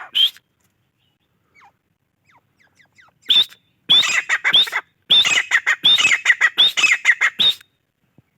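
Grey francolin (gora teetar) calling in its excited breeding-season manner: one short call at the start, then after a gap of about three seconds with a few faint chirps, a rapid run of loud, sharp repeated notes lasting about four seconds.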